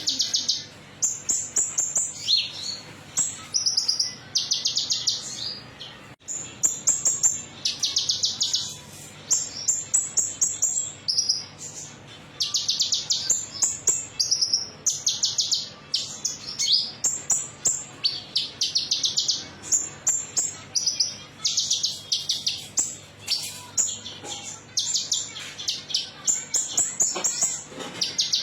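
A konin, a songbird, singing a metallic-toned song of short, rapid, high trills repeated about once a second. This is a 'pancingan' lure song, the kind played to prompt caged birds to sing. A faint low hum lies underneath.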